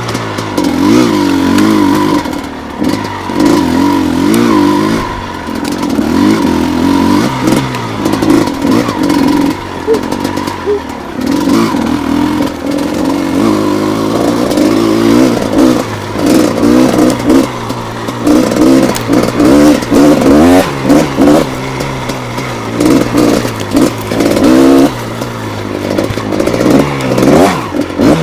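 Gas Gas EC250 single-cylinder two-stroke enduro motorcycle engine, ridden off-road: the revs rise and fall again and again as the throttle is opened and closed, with quick bursts of revving through the second half.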